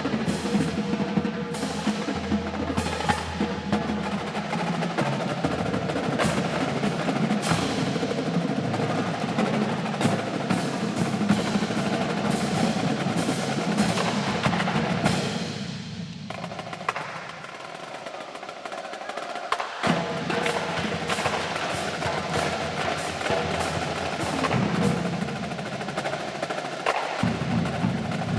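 Marching drum line playing a fast battle cadence of snare drum rolls and dense drum strokes. About sixteen seconds in it thins to a quieter passage for a few seconds, then the full line comes back in.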